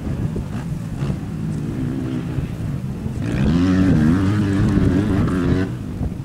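Motocross bike engines running, with one bike louder from about three seconds in, its engine revving up and down through the throttle, then dropping back near the end.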